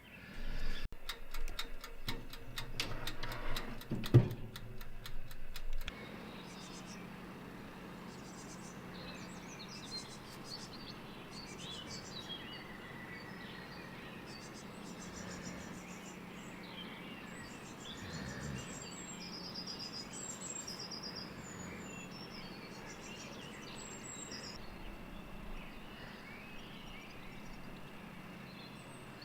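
Small birds chirping in short high calls over a steady low hum. The first few seconds hold a rapid run of sharp clicks and knocks, the loudest about four seconds in.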